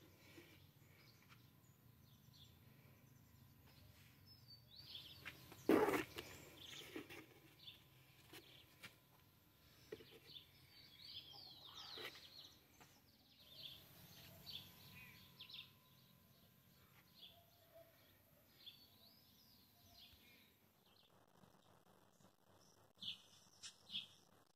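Small birds chirping on and off in short calls, over faint background noise. A single thump about six seconds in is the loudest sound.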